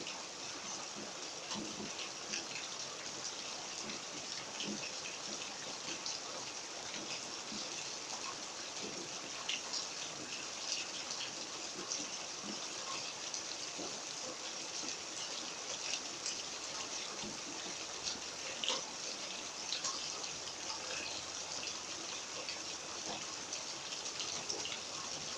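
Steady rain falling, a continuous hiss of water with many scattered drops ticking on hard surfaces.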